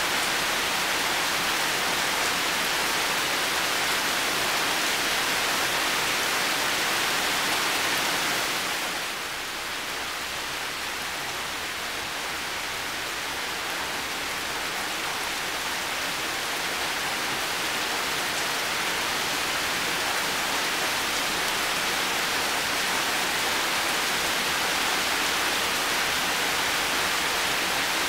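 Heavy rain falling steadily with a dense hiss. It eases slightly about nine seconds in, then builds back over the next several seconds.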